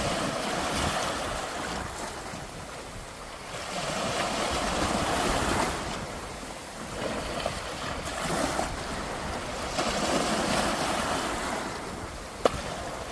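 Sea waves breaking on a beach, the surf swelling and fading every few seconds, with wind on the microphone. A single sharp click near the end.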